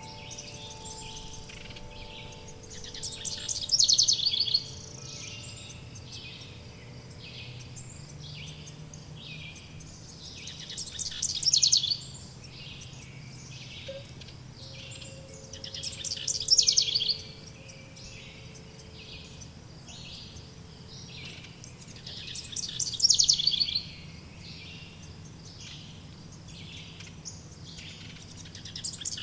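Forest birdsong: one bird repeats a bright, quick trilled phrase about every six seconds, with many short chirps from other birds in between. Faint wind chimes ring softly underneath, at the start and again about halfway through.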